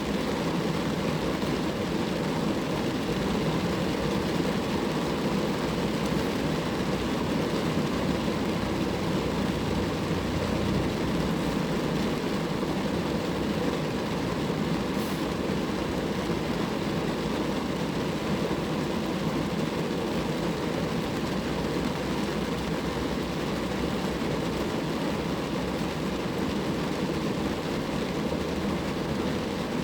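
Rain falling on a car, a steady, unbroken wash of noise with a low rumble underneath.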